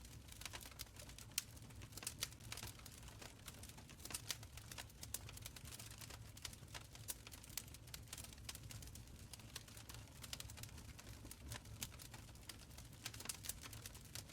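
Wood fire crackling in a stone fireplace: irregular sharp pops and snaps over a low, steady rumble of burning.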